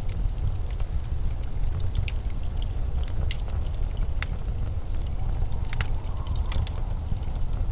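Winter wind as a steady, deep low rumble, with scattered sharp clicks and ticks over it at irregular moments.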